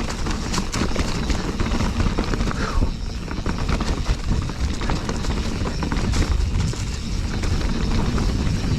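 Wind buffeting the mountain bike's GoPro microphone as a heavy, steady rumble, with many quick clicks and clatters of the bike rattling over rough, rocky trail.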